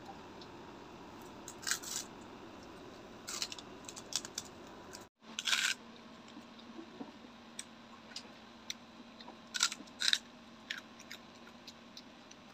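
Crunching of crispy fried pork chicharon being bitten and chewed close to the mouth: irregular clusters of short, sharp crunches, loudest about halfway through and again near the ten-second mark.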